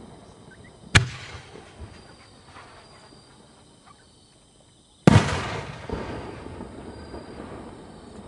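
Aerial firework shells bursting in the sky: two sharp bangs about four seconds apart, each trailing off in an echoing rumble, the second with a longer rolling tail.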